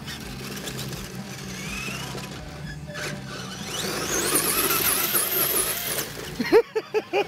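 1/10 scale RC offroad truck's motor and drivetrain whining under throttle, the whine climbing sharply in pitch about halfway through and then cutting off. Near the end come a quick run of short pitched pulses.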